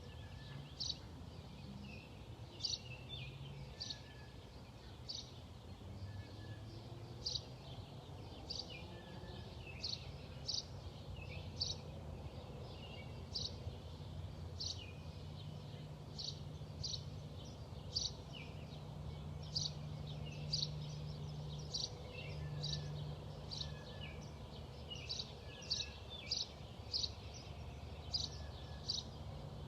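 A small bird chirping: short high chirps, about one or two a second, keep up throughout over a steady low rumble of background noise.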